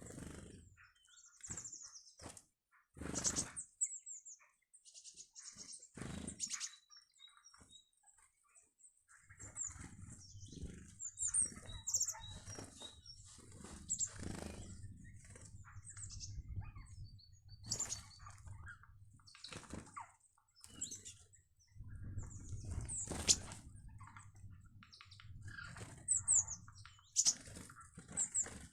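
Small wild birds at a garden feeder: high chirps and repeated short flutters of wings, with a low rumble through much of the second half.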